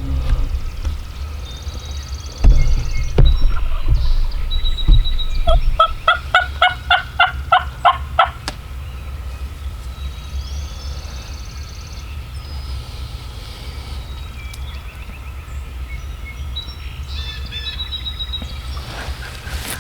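Wild turkey calling: a run of about a dozen evenly spaced yelps, roughly four a second, lasting a little under three seconds near the middle. Small songbirds chirp faintly before and after, over a low rumble of wind or handling on the microphone.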